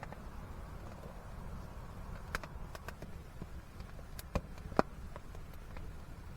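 Campfire crackling: scattered sharp pops and snaps, one standing out a little before the end, over a low steady rumble.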